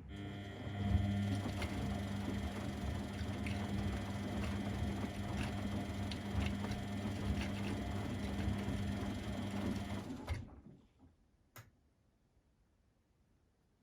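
Front-loading washing machine's motor turning the drum during the wash: a steady hum with light clicks and knocks from the tumbling load, starting suddenly and stopping abruptly after about ten seconds as the drum pauses.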